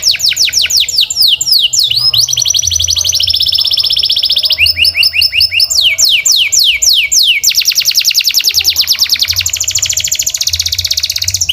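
Canary singing a long unbroken song of rapidly repeated phrases: fast runs of high falling sweeps alternating with even, rattling trills, switching to a new phrase every second or two.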